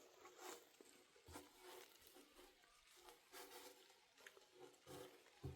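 Near silence, with faint scattered taps and clicks.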